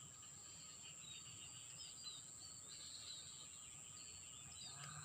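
Faint outdoor ambience: a steady high-pitched whine with scattered short bird chirps.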